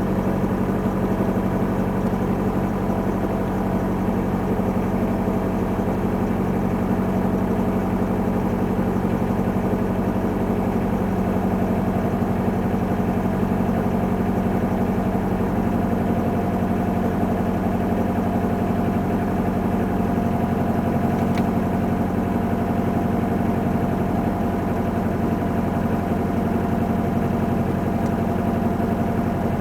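2002 Hyundai Accent's four-cylinder engine idling steadily while still cold, just after a cold start at −12°F.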